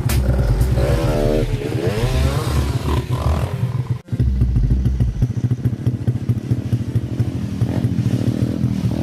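Dirt bike engine revving, its pitch rising and falling, with a sudden brief break about four seconds in.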